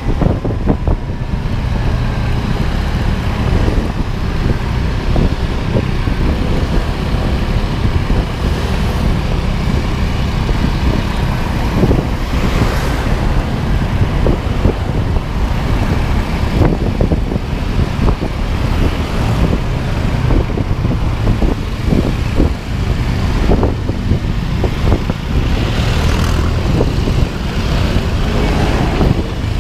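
A road vehicle on the move: steady low engine and road rumble with rushing noise and irregular knocks and bumps throughout.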